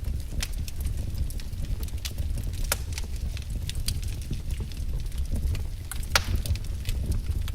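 Wood fire crackling: irregular sharp pops and snaps over a steady low rumble, with a couple of louder pops about a third of the way in and near the end.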